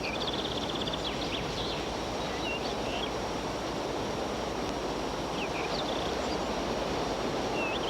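Outdoor countryside ambience: a steady rushing noise with scattered small bird chirps, including a brief fast trill near the start.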